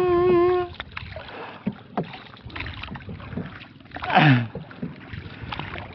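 A man's held sung note ends less than a second in. Then come paddle strokes from a small paddled boat: water swishing with a few knocks, and a louder swish about four seconds in.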